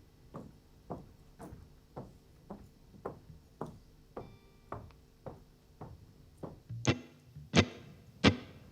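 Faint, evenly spaced percussive clicks, about two a second, keeping a steady tempo as a count-in. The clicks become much louder over the last two seconds, just before the next song's guitar comes in.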